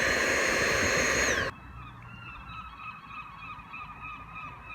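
Vacuum cleaner hoovering a car, running with a loud rush and a high whine, then cutting off about a second and a half in, its whine dropping in pitch. A fainter steady whine carries on afterwards.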